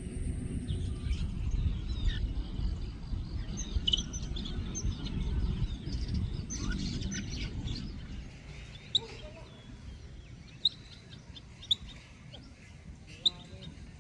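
Small birds chirping and calling, with single short, sharp calls every second or two in the second half. A low rumble runs under the first half and stops about eight seconds in.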